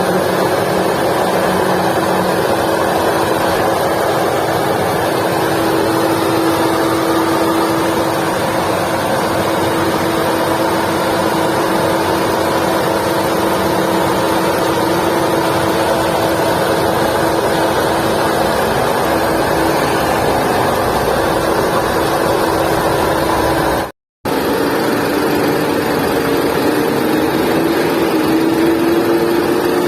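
Volkswagen Vento engine running with a steady whine over the general engine noise, the noise that is put forward as the car's engine problem. The sound cuts out briefly about two-thirds of the way through. After that the whine returns slightly lower and creeps up in pitch near the end.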